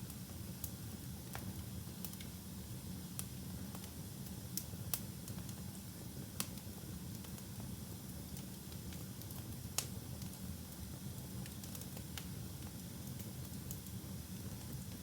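Wood fire burning in a fireplace: a steady low rumble of flames with scattered sharp crackles and pops, the loudest at about five, six and a half and ten seconds in.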